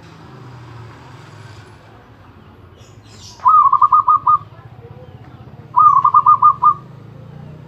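Zebra dove (perkutut) cooing: two phrases about two seconds apart, each a quick run of about six short notes, over a steady low hum.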